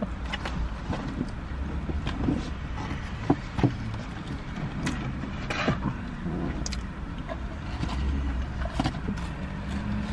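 Wet chewing and small mouth clicks of someone eating fast food, with a few sharper crackles, over the steady low rumble of an idling car with its air conditioning running, heard inside the cabin.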